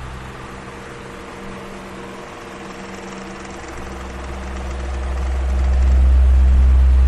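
Electric fan running steadily, its motor giving a constant hum under the rush of moving air. The low rumble of the air dips for the first few seconds, then swells back and is loudest near the end.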